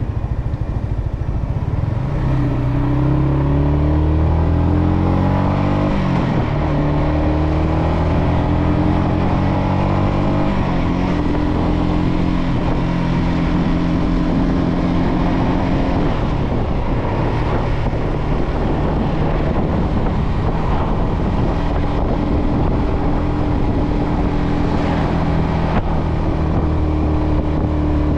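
Yamaha XSR125's single-cylinder four-stroke engine under way. Its note rises twice and drops back at upshifts about 6 and 10 seconds in, then holds a steady cruise, with rushing wind noise on the microphone throughout.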